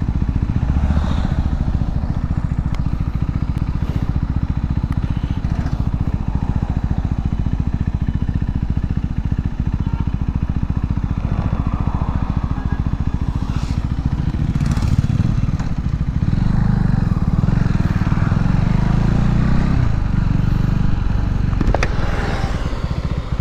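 Modified KTM RC 390's single-cylinder engine running hard at speed, heard from on board, with heavy wind rush on the microphone. It grows louder for a few seconds about two-thirds of the way through.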